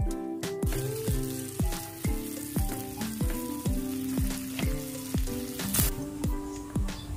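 Packaged dendeng balado, beef in red chilli, sizzling as it is reheated in a frying pan and stirred with a silicone spatula. Background music with a steady beat of about two beats a second runs under it. The sizzling stops near the end.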